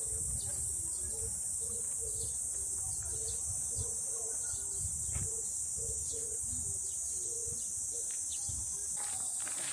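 Steady high-pitched insect chorus, with scattered short bird chirps over it and a few louder chirps near the end, above a low rumble.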